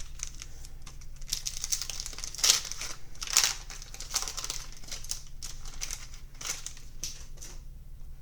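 Foil trading-card pack wrapper being crinkled and torn open by hand: irregular crackling, with two louder crackles about two and a half and three and a half seconds in.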